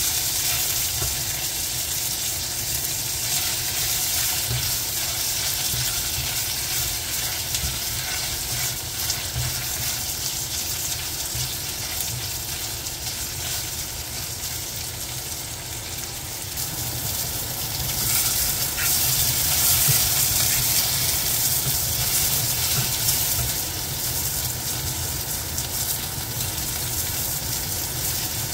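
Konnyaku balls sizzling and crackling as they fry in a stainless steel pot, stirred with a wooden spatula. The sizzle swells for a few seconds about two-thirds of the way through.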